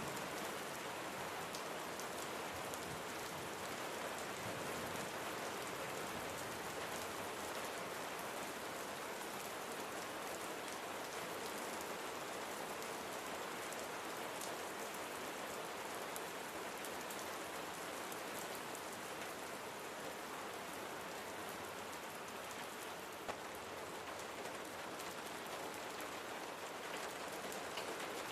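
Steady rain falling on a surface, an even hiss with fine drop ticks throughout, and one brief louder tick a little before the end.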